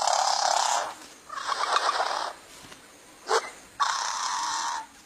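Male bowerbird giving harsh, wheezy, rasping display calls: three calls of about a second each, with a short sharp note between the second and third.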